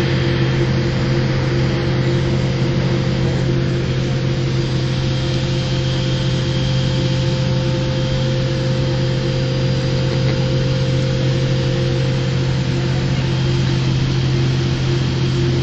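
Steady cabin hum inside a Boeing 787 airliner before departure: a constant low drone with several unchanging humming tones over a rush of air, with no change in pitch or level.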